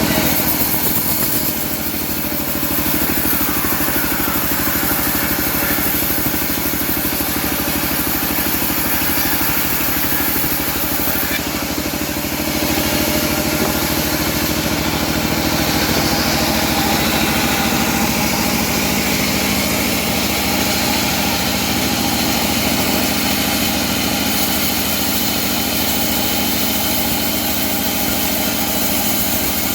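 Engine of a homemade bandsaw sawmill running steadily, with a dense hiss over it and brief dips in level about two and twelve seconds in.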